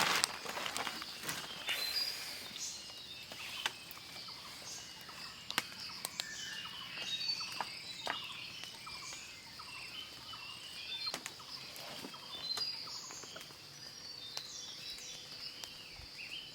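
Outdoor ambience: birds chirping here and there over a steady high insect buzz, with scattered sharp clicks.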